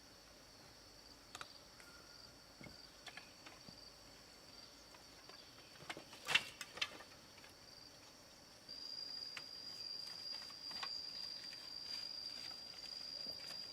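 Steady high-pitched insect chirring in the jungle, growing louder about two-thirds of the way through. Scattered light clicks, with a few sharp knocks near the middle the loudest sounds.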